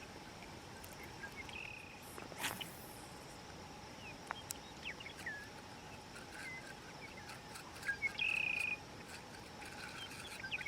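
Evening insect chorus, a steady high drone, with scattered short bird chirps and calls. A buzzy trill about eight seconds in is the loudest sound.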